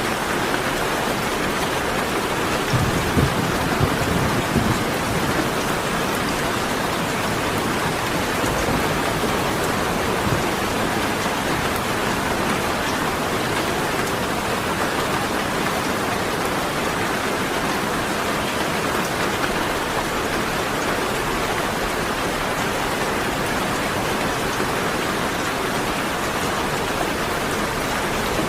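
Steady rain, an even hiss of falling water, with a brief low rumble of thunder about three seconds in.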